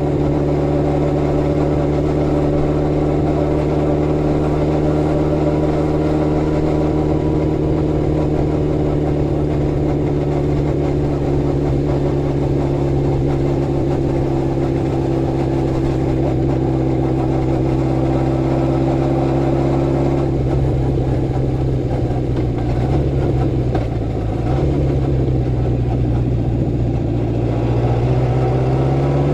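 Honda CB750 Four's air-cooled inline-four engine running while the bike is ridden. Its note sinks slowly for about twenty seconds, then drops to a lower, uneven note and climbs again near the end as the throttle opens.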